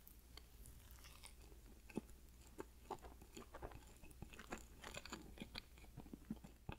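Someone chewing chocolate ganache cake: faint, irregular soft crackles and clicks, with one sharper click about two seconds in.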